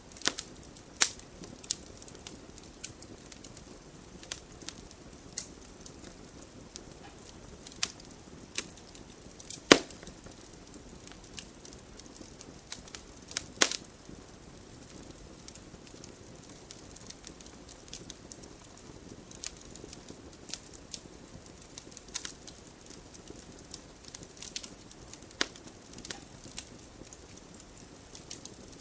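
Wood fire burning in a fireplace: irregular sharp crackles and pops over a soft low rustle of the flames, the loudest pops about ten and fourteen seconds in.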